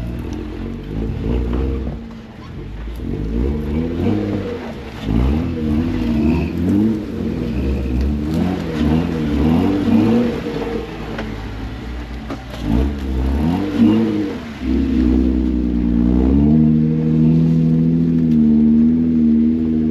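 An off-road 4x4's engine revving up and down again and again. Near the end it is held at steady high revs for a few seconds.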